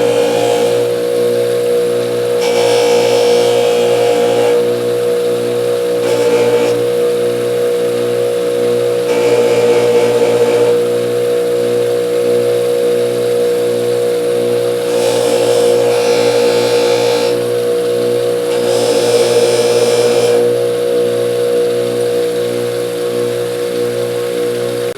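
Electric motor spinning a 6-inch 320-grit Scotch-Brite wheel with a steady hum, with about five bouts of scratchy hiss as a steel ratchet part is pressed against the wheel to clean off rust.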